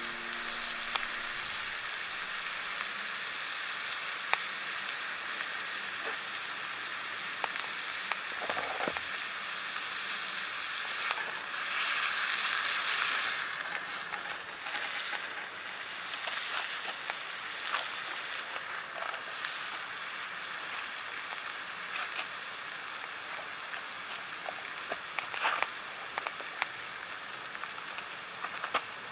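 Food frying in a pan over a wood fire: a steady sizzle with sharp pops now and then, swelling louder for a second or two about twelve seconds in.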